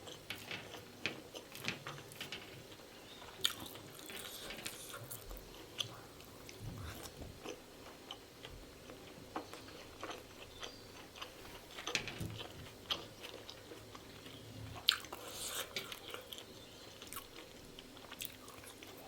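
Close-miked mouth sounds of someone eating pan-fried pork momo dumplings: soft irregular chewing with scattered wet smacks and clicks.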